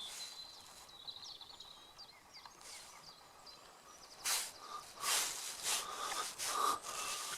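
Outdoor morning ambience: faint small birds singing in short chirps and trills. About four seconds in come several louder short bursts of hiss.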